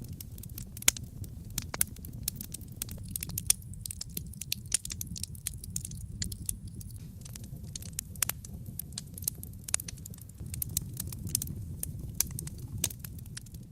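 Wood fire burning in a fireplace, crackling and popping in dense, irregular snaps over a low steady rumble.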